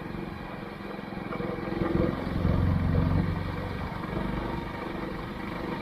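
Motorcycle engine running while riding up a ghat road. The engine sound swells louder about two seconds in and eases back after about a second.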